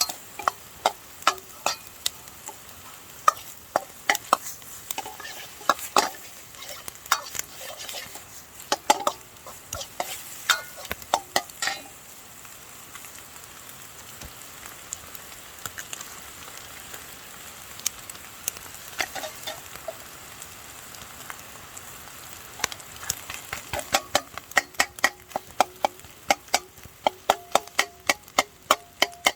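Fried rice sizzling in a Chinese wok over a campfire, with a metal utensil clanking and scraping against the wok as it is stirred and tossed. The clanks come thick for the first dozen seconds, thin out to mostly sizzle through the middle, and turn quick and rapid over the last several seconds.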